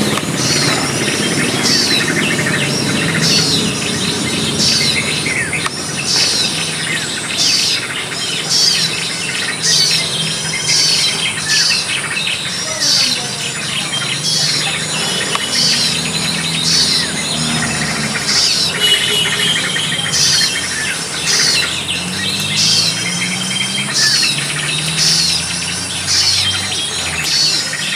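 Small bird calling, a sharp high chirp repeated about once a second, over a steady high-pitched insect drone.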